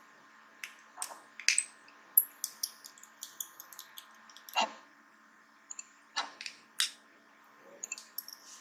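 Irregular sharp clicks and ticks of a small precision screwdriver and tiny screws being worked on the metal back of a Samsung Gear S3 smartwatch.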